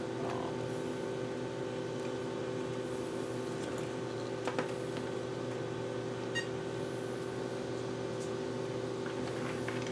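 Steady low electrical or fan hum of the room, with two faint clicks near the middle.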